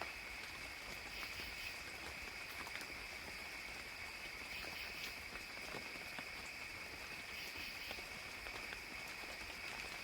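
Faint forest ambience: a steady, high insect chorus with scattered soft drips of water.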